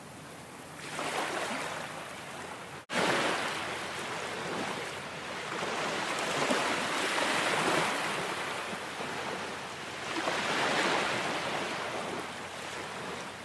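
Ocean waves washing onto a shore, the surf swelling and ebbing in slow surges. Near three seconds in the sound cuts out for an instant and comes back at full strength.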